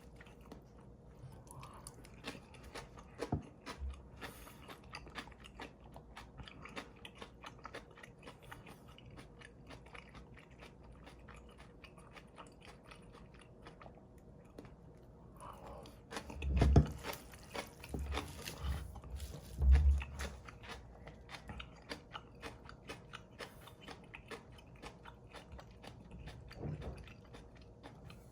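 Close-miked chewing of a mouthful of cold bibim noodles, with many small wet clicks of the mouth. Two louder low thumps come about 17 and 20 seconds in.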